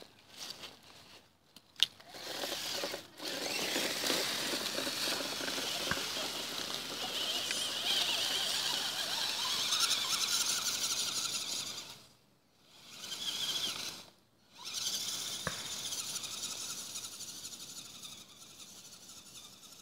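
Radio-controlled truck's motor and drivetrain whining as it drives, with the pitch rising for a while. It cuts out twice, briefly, past the middle, then trails off.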